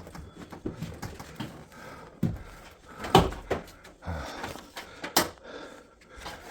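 Irregular knocks and clunks of washing machine parts being handled, with the sharpest impacts about three seconds in and again about five seconds in.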